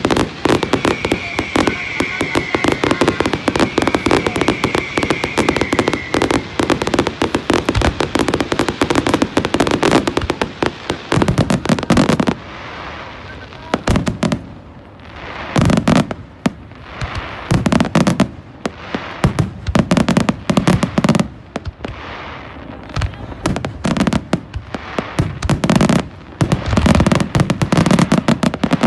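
Fireworks display: dense, rapid crackling and popping for about the first twelve seconds, a short lull, then repeated bursts of bangs and crackles.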